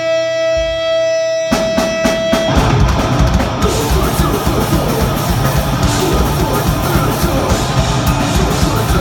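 A deathgrind band playing live: a held distorted guitar note rings, then a few drum hits come about a second and a half in. The full band kicks in about two and a half seconds in, with distorted guitars, bass and fast, dense drumming.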